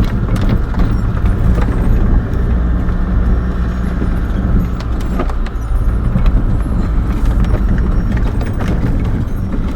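Camper van engine running at low speed with tyre and road rumble, heard from inside the cab, with scattered light rattles and clicks from the van over a rough, narrow lane.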